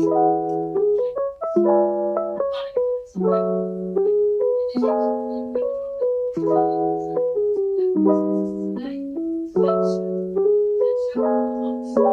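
Background music: a gentle lo-fi piece led by soft electric piano chords, struck in a steady rhythm.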